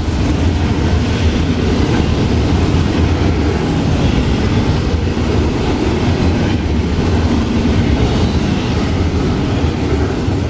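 Florida East Coast Railway freight train's cars rolling past at close range, a steady loud rumble of wheels on rail.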